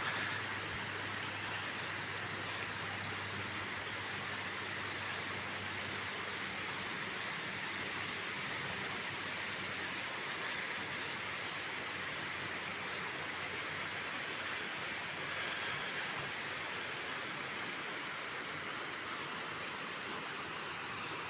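Steady high-pitched insect trilling, with a second, higher insect call pulsing on and off about once a second, over an even outdoor hiss.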